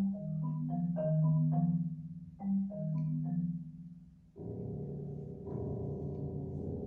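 Chamber ensemble of flute, violin, marimba and piano playing: a short figure of struck marimba notes, with low notes ringing beneath them. A little over four seconds in, it gives way to a dense, sustained chord, thickening further about a second later.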